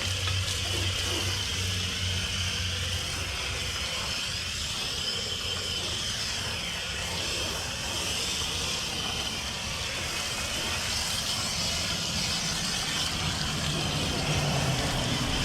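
Garden hose spraying water to rinse cleaner off a boat, a steady hiss, with a low engine-like hum for the first few seconds and again near the end.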